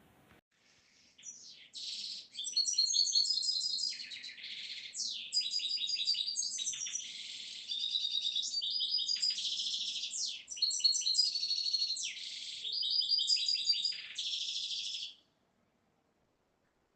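Small songbirds chirping and trilling in quick runs of high notes. The song stops abruptly near the end.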